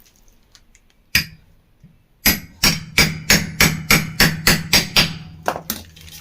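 Hammer tapping a rod down onto candle-wax pieces packed into a ceiling fan's bearing housing, the wax pressure forcing the bearing up and out. There is one blow, then a steady run of about ten taps, around three a second, and a few lighter taps near the end.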